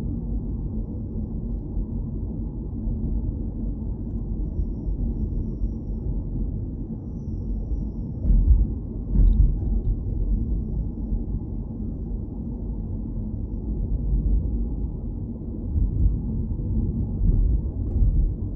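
Car driving: a steady low rumble of road and engine noise. It swells louder about halfway through and again near the end, with a couple of faint clicks.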